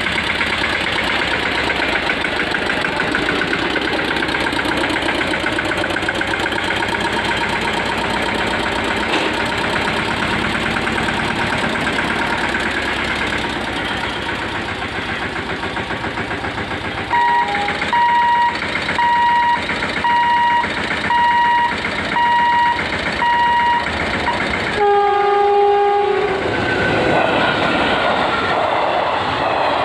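A tractor's diesel engine runs steadily, then a series of about seven beeps sounds about once a second. About 25 seconds in, a WAG-7 electric locomotive gives one short two-tone horn blast, and the train passes with its wheels clattering over the rails.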